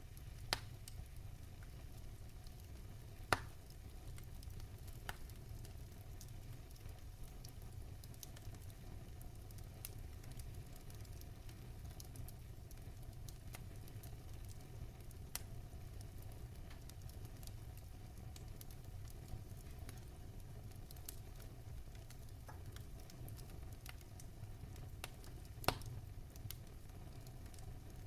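Wood fire burning in a fireplace: a steady low rumble and hiss with scattered sharp crackles and pops, the loudest about three seconds in and near the end.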